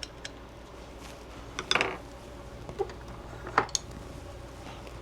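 A few light metal clicks and taps from Torx driver bits being tried on the small screws of a pistol slide's optic plate, a small cluster about halfway through and a pair a little later, over a low steady room hum.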